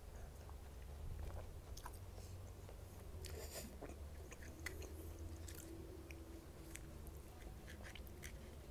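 Close-miked chewing of a mouthful of pani puri (golgappa), with scattered soft crunches and small wet mouth clicks.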